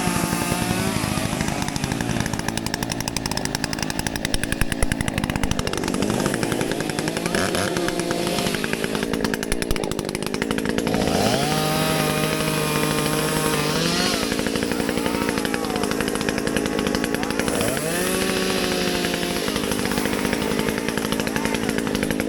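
Gas chainsaw running at high revs, cutting into a downed tree. Its pitch drops several times as it bogs into the wood and climbs again as it clears the cut.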